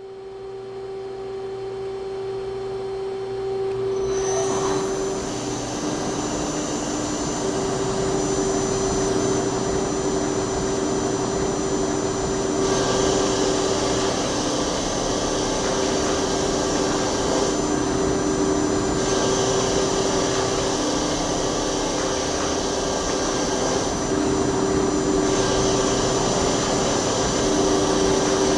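PLG-42XL CNC lathe turning steel: a steady spindle whine over a hissing cutting noise. It grows louder and brighter about four seconds in, and the high hiss then comes and goes in stretches of a few seconds.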